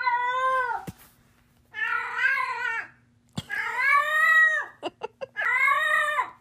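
A domestic cat meowing: four long, drawn-out meows about a second each, every one rising and then falling in pitch, with short pauses between them.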